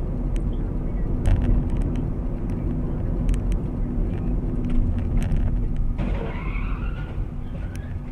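A car's engine and road noise, heard from inside the cabin as a steady low rumble, with scattered light clicks and knocks.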